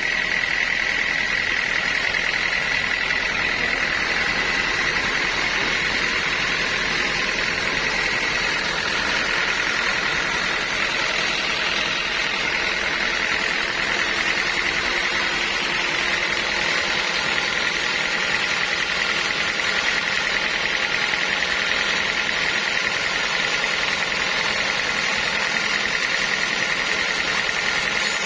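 Sawmill machinery running steadily, with a high whine held throughout that shifts slightly in pitch about eight seconds in.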